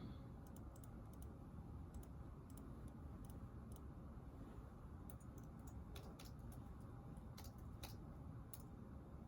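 Faint, irregular clicks of typing on a keyboard over a low, steady room hum.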